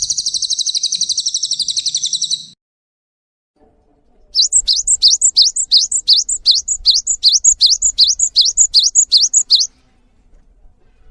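Songbird song: a fast, buzzy high trill for about two and a half seconds that cuts off sharply. After a short pause comes a run of about nineteen repeated high, swooping notes, roughly three and a half a second, stopping near the end.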